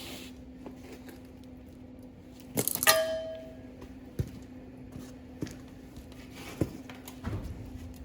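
Metal clanking: one loud clang that rings on briefly, about three seconds in, then four lighter knocks spread over the next few seconds, over a steady low hum.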